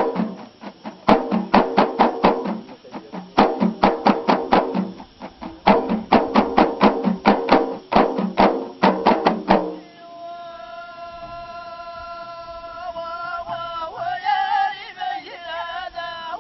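Ahidous music: bendir frame drums struck in quick bursts of several beats with short pauses between them, then about ten seconds in the drums stop and a single voice holds a long sung note that starts to waver and bend in pitch as the singing goes on.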